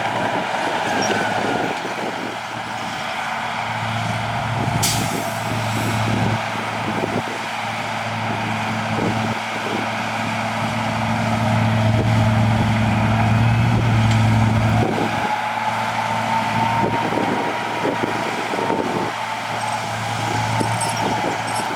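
Heavy diesel earthmoving machinery running under load, its engine note swelling and easing. A short hiss of air comes about five seconds in, and a faint whine rises in the second half.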